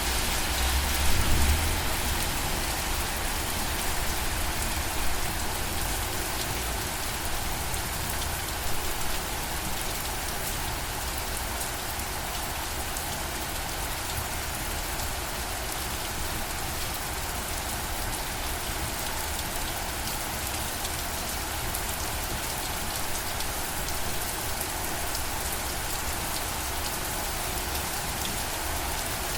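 Steady rain falling and pattering on surfaces. A brief low rumble comes about a second in.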